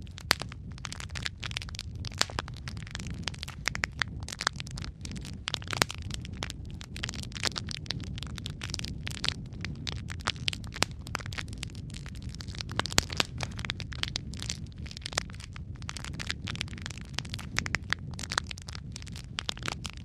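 Wood fire crackling continuously: many irregular snaps and pops, some sharper and louder than the rest, over a low steady rumble of burning.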